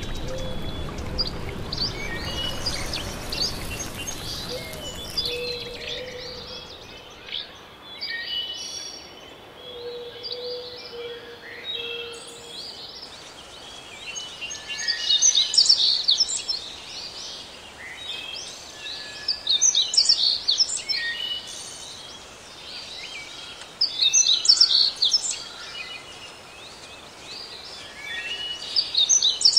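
Songbirds singing: clusters of high chirping phrases about every four to five seconds, loudest in the second half. In the first few seconds a low rushing sound of flowing water fades out.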